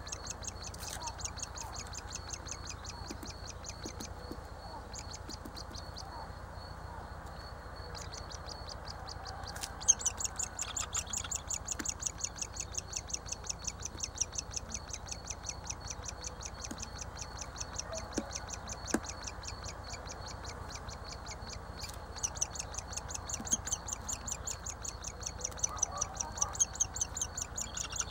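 Woodpecker nestling begging from inside the nest cavity: a rapid, even string of short high calls that goes on and on, fading for a few seconds and then growing louder from about ten seconds in.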